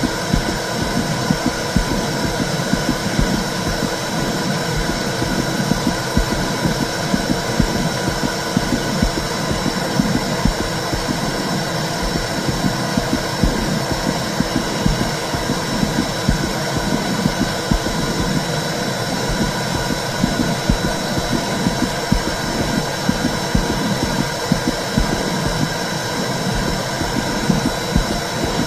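Womb sound for soothing a baby: a steady, low, rumbling whoosh with a pulsing like a heartbeat running through it.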